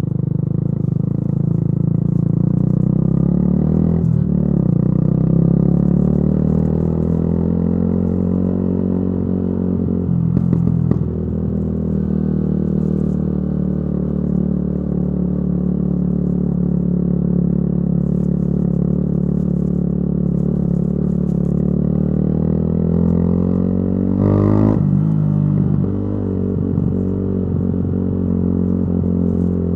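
Yamaha YZF-R125 single-cylinder four-stroke running through a modified aftermarket exhaust while riding, the engine note rising and easing with the throttle. The note breaks and drops sharply three times, at about 4, 10 and 25 seconds in.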